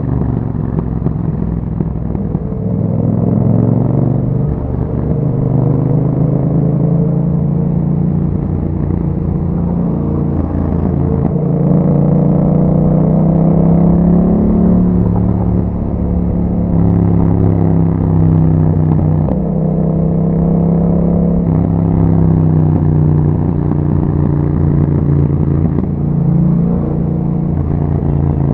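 A 2021 Yamaha MT-07's 689 cc parallel-twin engine, running through an Akrapovic exhaust with a dB killer fitted, heard while riding. Its pitch rises and falls several times as the bike accelerates and eases off.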